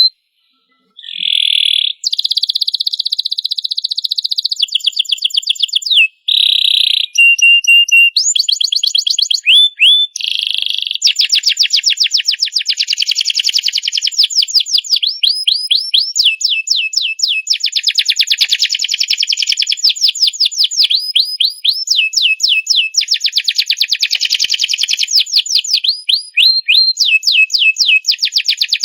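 Domestic canary singing a long, varied song: fast runs of repeated high chirps and rolling trills, with a short silence about a second in and a few brief pauses.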